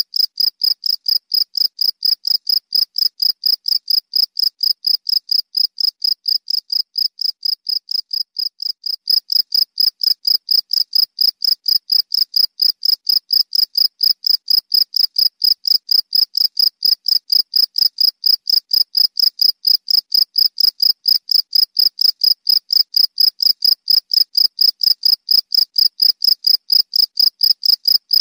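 Cricket chirping loudly: one high-pitched chirp repeated evenly about four times a second, a little louder from about nine seconds in.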